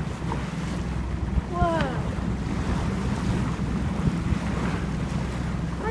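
A boat's motor running with a steady low hum, under wind on the microphone and water noise, with one short falling cry about two seconds in.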